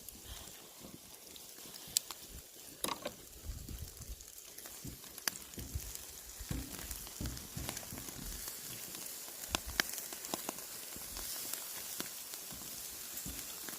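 Marinated pork bulgogi sizzling on a wire grill over charcoal, a steady hiss with scattered sharp pops and crackles.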